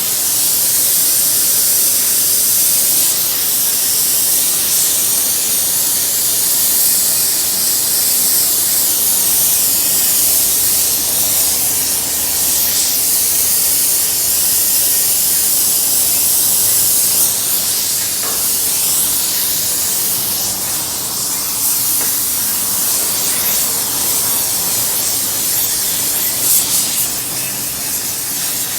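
Metalworking welding arc giving a steady, loud, high-pitched hiss and sizzle that holds for the whole stretch, with small flickers in level, as the filler hole is welded up.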